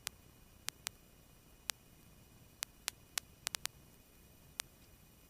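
A quiet aircraft radio/intercom audio line with no engine noise, broken by about a dozen sharp, irregular clicks and pops of static crackle.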